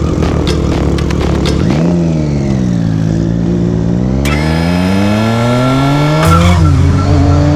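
Car engine running hard: after a rough rumble the revs dip, then climb steadily under acceleration, drop suddenly about six seconds in as a gear change, and start climbing again.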